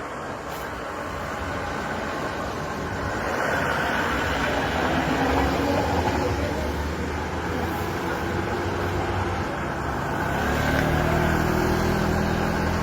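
Motorcycle engines working hard under load on a steep uphill climb, growing louder over the first few seconds, with a low steady engine note coming through near the end.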